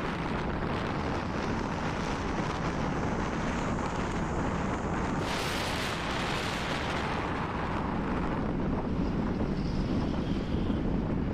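Wind rushing over the microphone while riding a motorcycle on a rainy road, a steady noise of wind and road. A louder hiss swells about five seconds in and fades over a couple of seconds.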